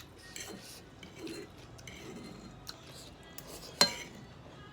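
Close-miked eating sounds of noodles being chewed and slurped, with soft scattered mouth noises and one sharp clink of a utensil against the bowl about four seconds in.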